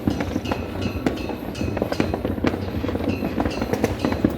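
Many fireworks and firecrackers going off at once: a dense, unbroken crackle of bangs with brief whistling tones among them.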